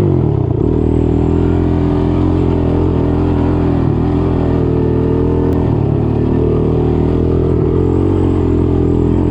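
Single-cylinder off-road engine running at a steady, loud throttle while riding, after a brief dip and rise in revs at the start.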